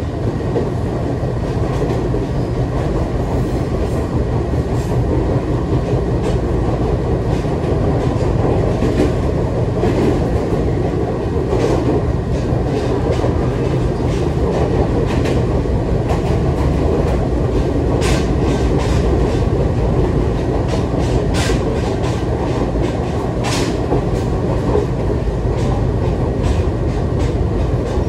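Running noise of a Nagareyama Line commuter train heard from inside the passenger car: a steady low rumble with a few sharp clicks from the wheels on the track in the second half.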